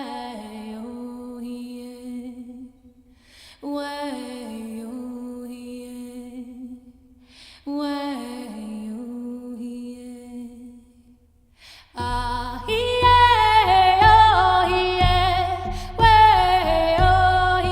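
A voice sings a Lakota song unaccompanied in three slow, falling phrases of long held notes. About twelve seconds in, it turns louder and brighter and a steady drumbeat comes in under the singing.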